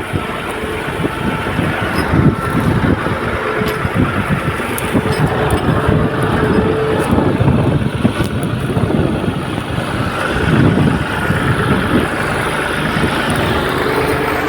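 Tractor engine running steadily with a loud, uneven low rumble.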